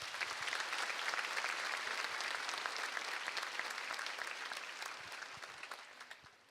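Audience applause from a large hall crowd, steady at first and fading away in the last second or so.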